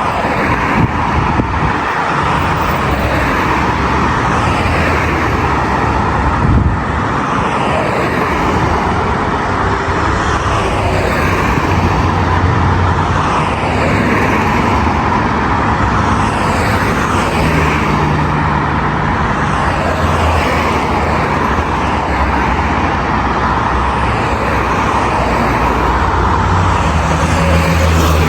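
Steady, loud traffic on a busy city boulevard: car engines and tyre noise passing continuously, with a brief thump about six and a half seconds in.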